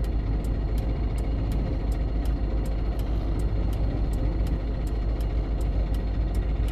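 Steady cab noise of a GAZon Next truck's diesel engine and drivetrain running under way, with a steady low rumble and road and wind noise. A faint regular ticking, about three ticks a second, runs along under it.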